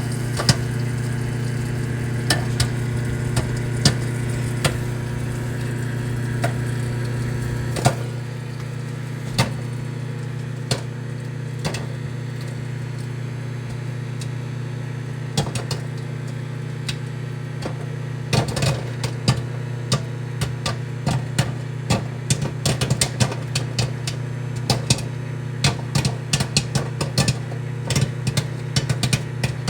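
Microwave oven running with a steady hum while popcorn pops inside it. The pops are scattered at first, then come thick and fast from about two-thirds of the way in.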